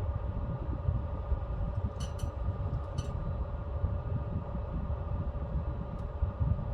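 Pellet stove running: the steady hum of its blower over a low rumble, with a few sharp ticks about two and three seconds in and a faint one near the end.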